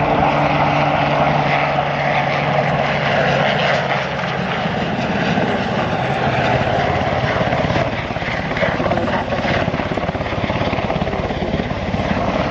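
An RAF Westland Sea King search-and-rescue helicopter flying past, its rotors and twin Rolls-Royce Gnome turboshaft engines making a loud, steady sound. A low steady tone in it fades out about four seconds in.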